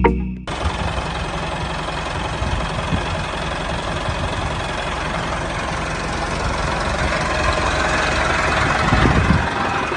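A DIY mini tractor running, with a steady engine-like sound and a fast low knocking, as of an engine at idle. It grows a little louder near the end. Music cuts off about half a second in.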